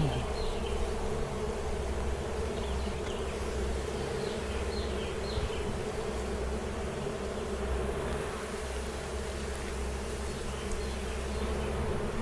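Honeybees buzzing in a steady drone around an open hive that is being worked frame by frame.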